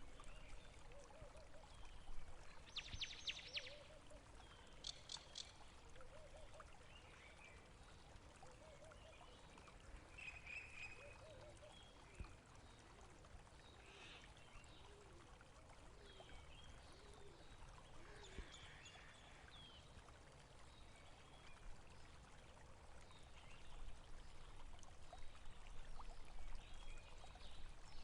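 Faint flowing water, a stream gurgling steadily, with a few brief high bird calls scattered through it.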